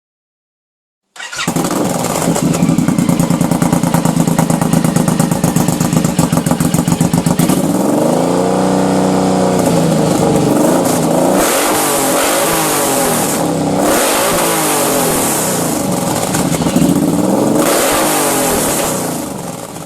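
Suzuki M109R's big V-twin through a Hard Krome Velocity Pro aftermarket exhaust, idling with a loud, lumpy pulse, then revved up and down: one long rev followed by several quicker throttle blips.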